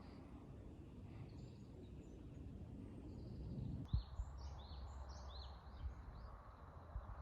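Faint outdoor ambience with small birds chirping: a few soft high chirps at first, then a cluster of short, falling chirps after a brief thump about four seconds in.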